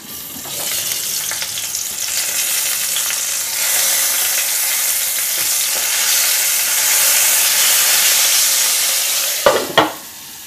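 Small whole brinjals sizzling in hot mustard oil in a nonstick pan, loud and hissing with the glass lid off while they are turned with a spatula. Near the end two sharp clinks as the glass lid goes back on, and the sizzle falls to a muffled hiss under the lid.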